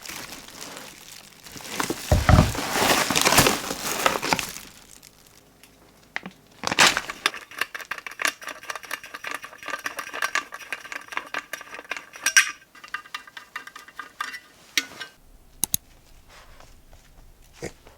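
Household objects being handled: plastic packaging crinkling for the first few seconds, then a knock about seven seconds in with a short ringing after it, and scattered light clinks and clicks.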